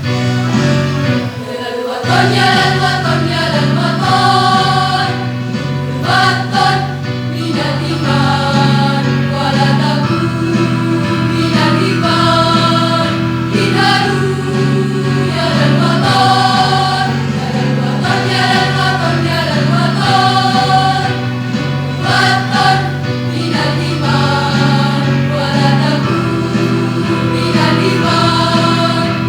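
High school choir singing a patriotic song in parts over a steady sustained instrumental accompaniment.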